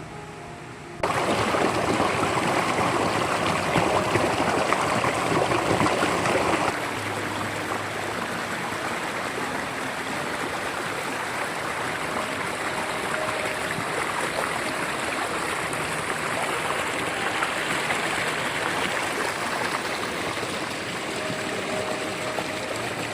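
Mountain stream running as a steady rush of water; it comes in abruptly about a second in and drops somewhat in level about a third of the way through.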